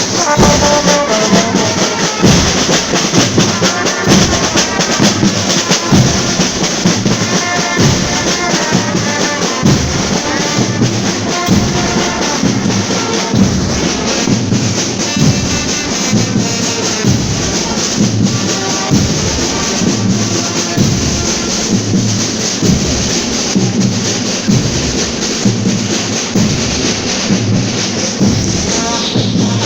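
Marching fanfare band playing: brass instruments carry a melody over a steady beat of bass drum and other marching percussion.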